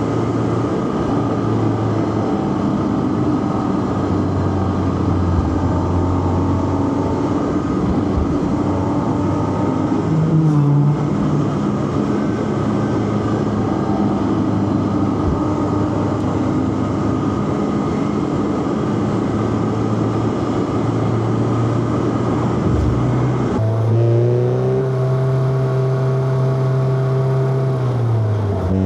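Four-cylinder car engine pulling on a mountain road, with tyre and road noise underneath. The engine note shifts about ten seconds in. About three-quarters of the way through, the revs climb quickly and hold high, then drop near the end.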